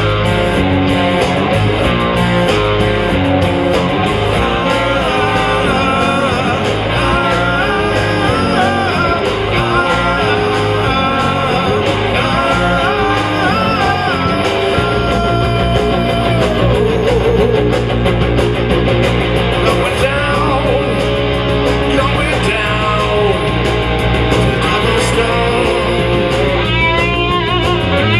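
Live rock band playing a song, with guitars to the fore.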